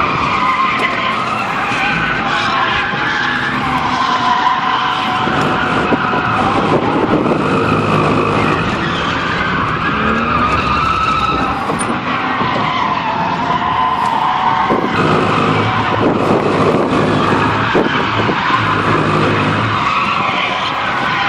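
Car engine running hard, heard from inside the cabin, its pitch rising and falling as the car is driven around an oval track, with tyres skidding.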